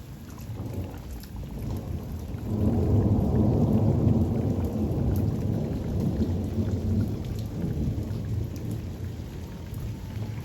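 Thunderstorm: a long roll of thunder that builds about two and a half seconds in, holds for several seconds and slowly dies away, over steady rain with scattered drops.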